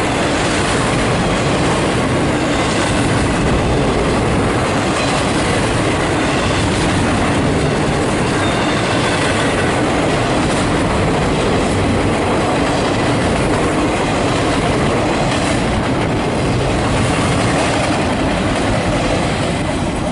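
A CSX freight train of empty double-stack well cars rolling past on the rails, a steady loud noise of wheels and cars that keeps up throughout.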